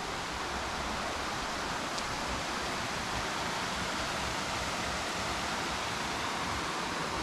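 Steady rushing of water falling at a waterfall, an even hiss with no breaks.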